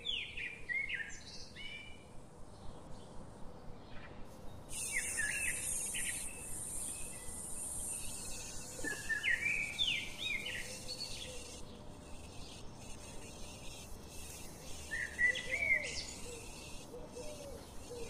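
Birds chirping in four short bunches of quick rising calls, over the light scrape of a steel spatula stirring meat in a kadai.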